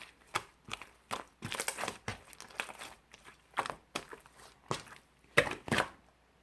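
Clear slime being squished and pressed by hand, giving irregular sticky pops and crackles, one to a few a second, that stop just before the end.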